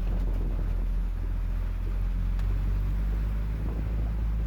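A vehicle engine running with a steady low hum, under a faint even hiss.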